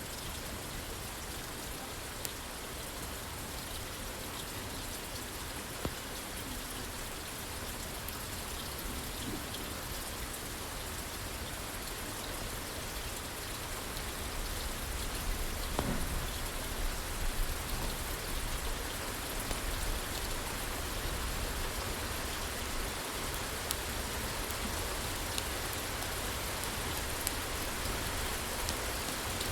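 Steady rain falling on a roof, with a few sharp pops from a crackling wood fire. The rain grows a little louder about halfway through.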